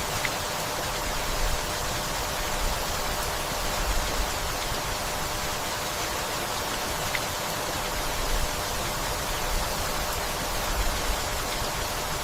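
Steady rainfall, an even hiss of rain falling on leaves and a wooden house, with faint low rumbles now and then underneath.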